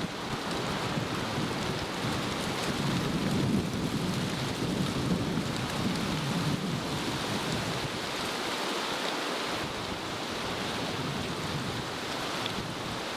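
Wind buffeting an outdoor microphone: a steady rushing noise with gusting low rumbles.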